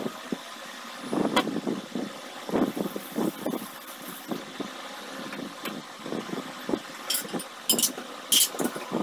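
Cookware and cabinet doors knocked and clattered while lower kitchen cabinets are emptied and wiped, with a few sharp metal clinks near the end, over a steady background hum.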